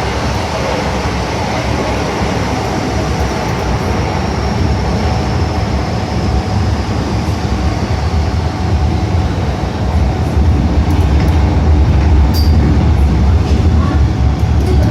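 MTR Island line electric train running on the track: a steady low rumble with a faint high whine that slowly falls in pitch during the first half, the rumble growing a little louder after about ten seconds.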